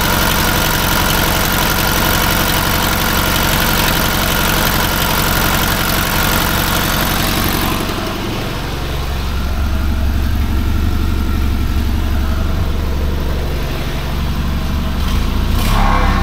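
Fiat 126p BIS's water-cooled two-cylinder engine idling steadily, running on both cylinders after a valve clearance adjustment. About halfway through, the sound turns lower and duller.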